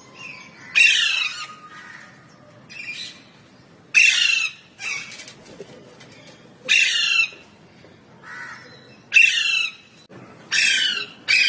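Pet parrot calling "mää" over and over: six loud squawking calls, each about half a second long, with softer calls in between.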